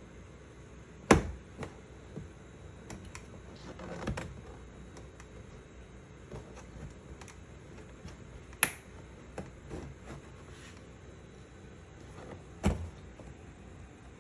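Scattered clicks and knocks of plastic door-panel trim being handled and pried loose, with three sharper snaps or knocks, the loudest about a second in.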